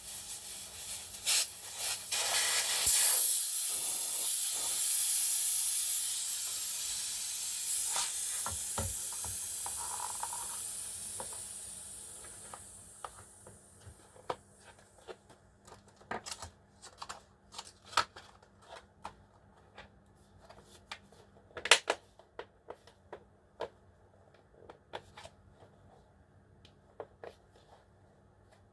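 Compressed air hissing out of a small airbrush compressor's air line. The hiss is loudest a few seconds in and fades away by about halfway as the pressure drops, followed by scattered light clicks and knocks of handling.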